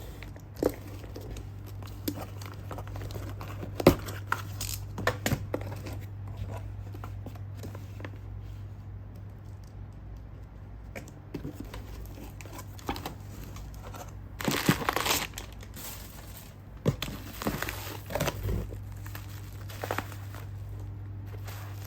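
Parcel packaging being torn open and crinkled by hand, with scattered sharp handling clicks and a longer, louder stretch of crinkling about two-thirds of the way through. A steady low hum runs underneath.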